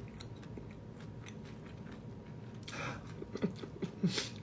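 A person chewing food close to a phone's microphone, with faint small crunches and mouth clicks. Near the end come a short breathy puff and a brief murmur.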